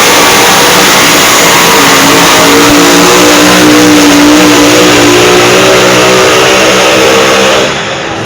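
Two-wheel-drive pulling truck's engine running loud at full throttle under the load of the pulling sled, its pitch wavering slightly. Near the end the engine sound drops away sharply.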